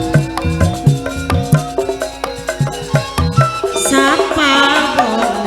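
Instrumental folk music: a melodic lead plays over a steady rhythm of hand-drum strokes, with a rising flourish near the end.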